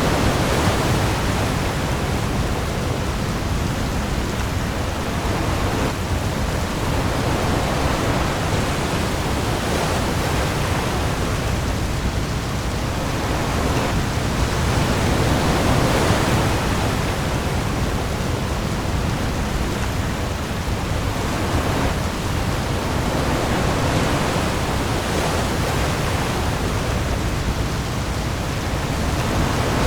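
Heavy rain falling on the open sea with waves, a dense steady hiss that swells gently every few seconds, over a low bass rumble.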